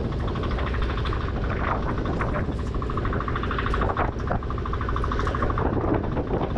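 Strong wind rumbling on the microphone over a steadily running motor. For a few seconds in the middle there is a fast, even pulsing.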